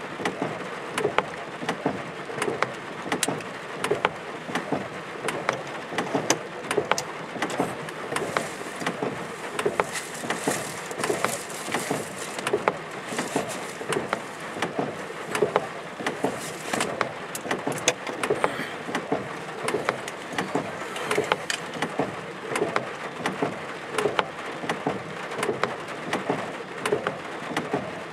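Rain falling during a thunderstorm, a steady hiss with many close drops ticking irregularly.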